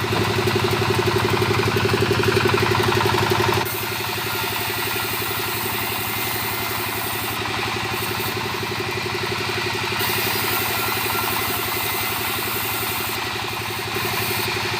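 Two-stroke chainsaw engine running, louder for the first three and a half seconds, then dropping suddenly to a steady idle.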